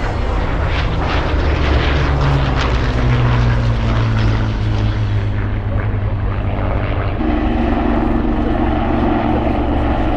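Low-flying display aircraft passing loudly overhead, a heavy engine drone whose pitch shifts upward about seven seconds in.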